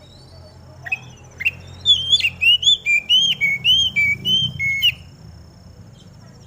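Oriental magpie-robin singing: two short upswept call notes, then about three seconds of loud, quickly repeated whistled notes that rise and fall. A faint steady high-pitched buzz runs behind it.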